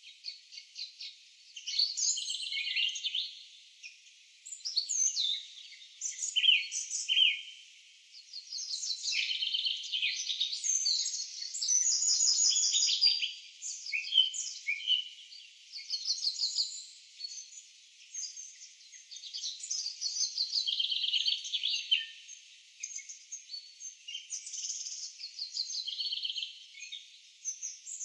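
Birdsong from a nature sound-effect track: small birds chirping and trilling in high, rapid runs of notes, coming in bursts of one to three seconds with short pauses between.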